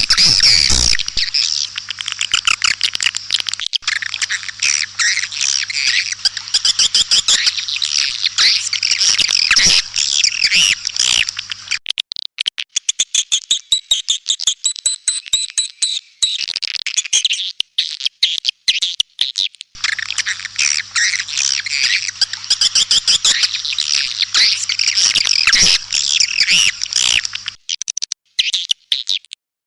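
Recorded swiftlet calls: dense, rapid high twittering chirps, thinning to a quick run of clicks for several seconds in the middle, over a faint low hum. This is a swiftlet lure call, played to attract swiftlets to a nesting house.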